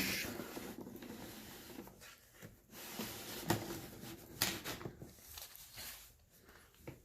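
Light handling noises from a painted engine part being turned around and brushed: a few sharp clicks and knocks with soft scraping in between.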